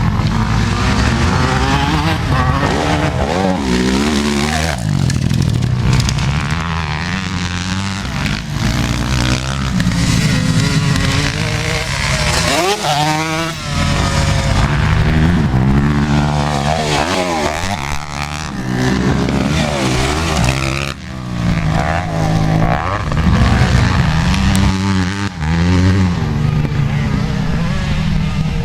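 Motocross dirt bike engines revving hard, their pitch climbing and dropping repeatedly with throttle and gear changes as bikes ride by, sometimes more than one engine at once.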